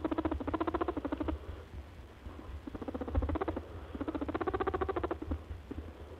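Rabbit making a fast, pulsing vocal call in three bouts, each about a second long.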